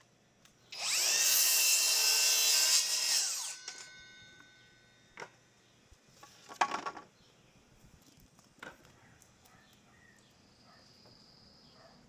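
Power drill running into wood for about three seconds, its whine winding up as it starts and winding down as it stops, followed by a few short knocks.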